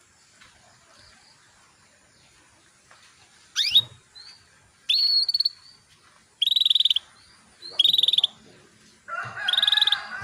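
Female canary calling to a male: a rising chirp about three and a half seconds in, then four short, fast-trilled calls about a second and a half apart, the last with a lower warbling sound under it.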